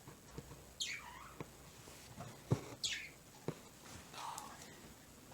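Bird chirping: two clear calls sweeping down in pitch, about a second in and again just before the three-second mark, with a fainter call later, over a few soft taps.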